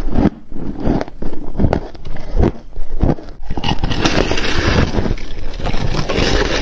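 Close-up crunching of freezer frost being bitten and chewed, slowed down. There are a few separate crunches in the first half, then dense, continuous crunching from about three and a half seconds in.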